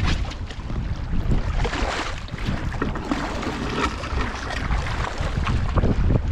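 Wind buffeting the microphone with a steady low rumble, mixed with irregular splashes of paddle strokes and water slapping against an inflatable R1 raft.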